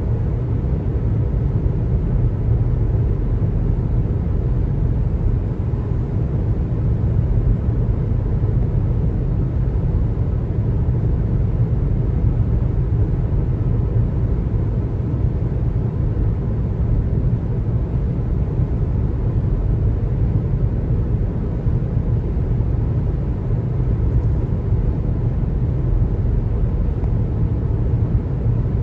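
Steady low road noise and rumble of a car driving at an even pace.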